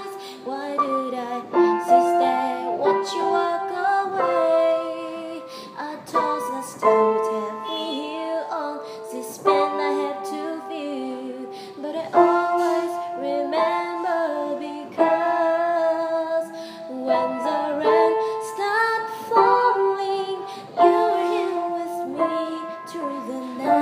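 A slow song: a female voice singing held, gliding notes over piano accompaniment.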